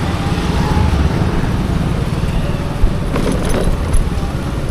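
Wind and road noise on the microphone while riding a Bajaj Chetak electric scooter in traffic: a steady low rumble, with a brief louder sound about three seconds in.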